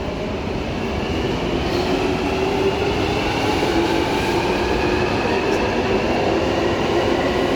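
London Underground Jubilee Line 1996 Stock train accelerating, its traction motors whining in several tones that slowly rise in pitch over the rumble of wheels on rail.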